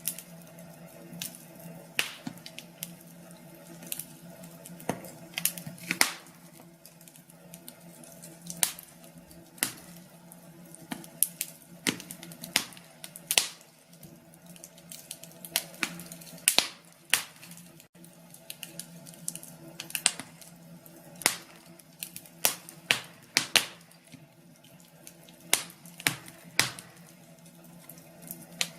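Wood fire in a fireplace crackling, with sharp irregular pops and snaps a few times a second over a faint steady hum.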